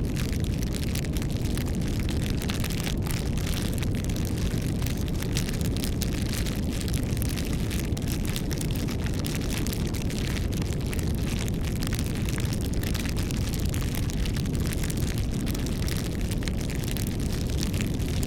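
Wood campfire burning: a steady low rumble of flames with frequent small crackles and pops from the burning wood.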